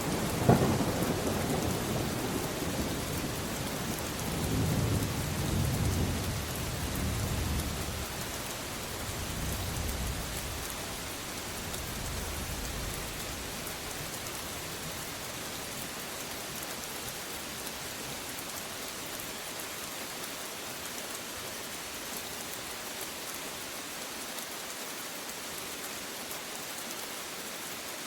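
Thunderstorm: a sharp thunderclap just after the start rolls into low rumbles that die away by about halfway through, over steady rain. After that, only the even hiss of rain falling on surfaces remains.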